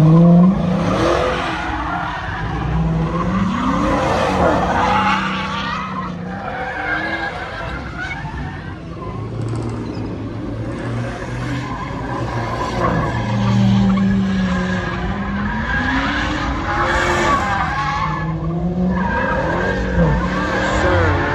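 A car skidding with its tyres squealing while its engine revs up and down over and over, as in donuts or a burnout.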